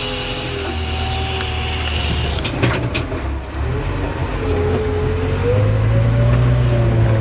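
JCB backhoe loader's diesel engine running under load, with a whine that rises and falls in pitch, and a few sharp knocks about two and a half to three seconds in.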